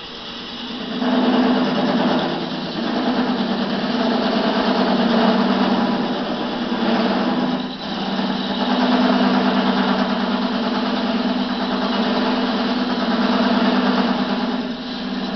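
Wood lathe running while a chisel cuts into a spinning wet-wood bowl blank, a steady hum with a dense scraping, chip-throwing noise that briefly eases about two and a half seconds in, again around eight seconds, and near the end.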